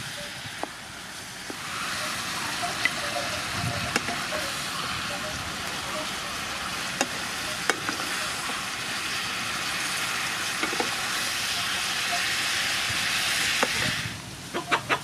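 Sea snails and vegetables sizzling steadily in a hot pan of oil, with occasional clicks of a wooden spatula against the pan. The sizzle stops suddenly near the end, followed by a few sharp clicks.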